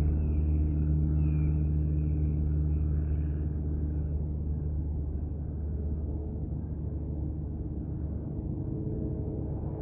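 Low, steady drone of an airplane, slowly fading over the first half, with faint short bird chirps throughout.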